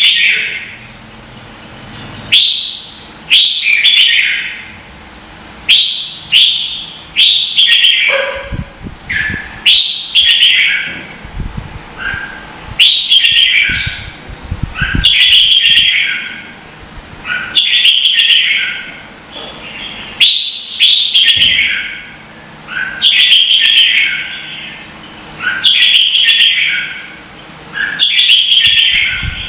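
Red-whiskered bulbul singing: a loud, short, warbled whistled phrase repeated about every two and a half seconds, with some low rumbling noise near the middle.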